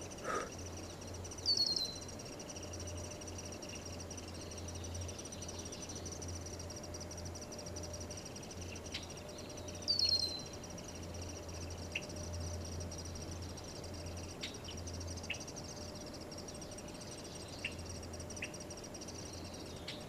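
Wild bird calls in forest: two loud, quick downward-sliding calls, about 1.5 s and 10 s in, and a few short chips. These sound over a steady, high, pulsing trill.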